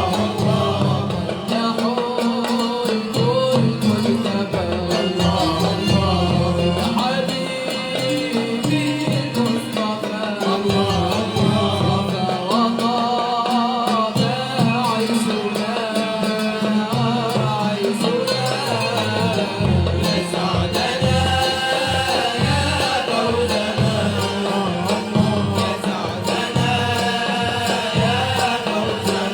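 Malouf ensemble performing: a wavering melody line, with singing, over a steady repeating drum beat.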